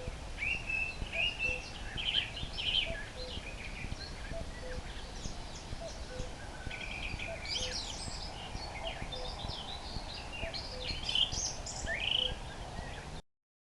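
Common nightingale singing a run of varied phrases of whistles, trills and chirps. Under it a faint low note repeats evenly, a little faster than once a second. The sound cuts off abruptly near the end.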